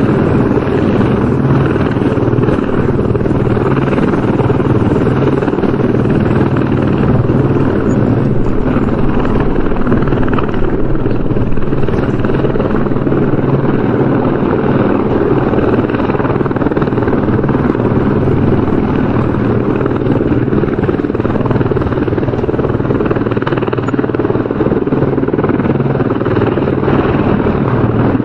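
Helicopter rotor and engine running, a loud, steady drone that stays even in pitch and level throughout.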